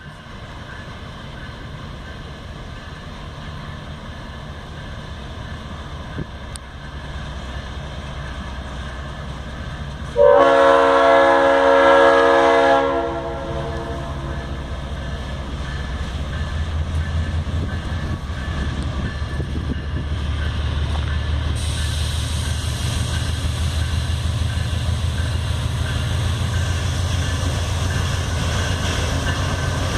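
Freight train locomotive approaching with its engine rumble building, sounding a loud chord horn for about three seconds around ten seconds in. The engine noise then grows heavier as it passes, with the rush of wheels on rail joining in about two-thirds of the way through.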